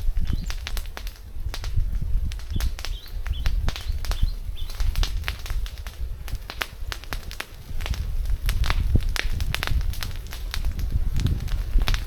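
Outdoor nature ambience: a steady low rumble with many irregular sharp clicks and crackles, and a few short high bird chirps in the first half.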